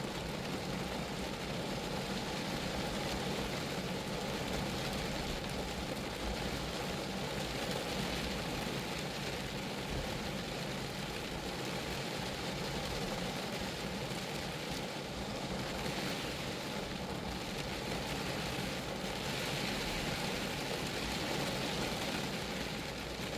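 Steady rain falling on a Geo Metro car, an even hiss of drops on the car body with no breaks.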